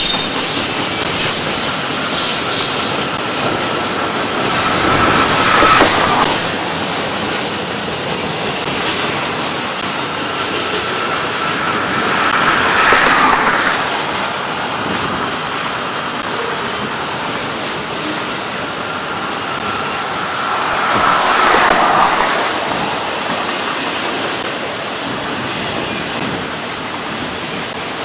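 Union Pacific double-stack container freight train rolling past, a steady rumble and clatter of wheels on rail. It swells about every eight seconds with a faint wheel squeal.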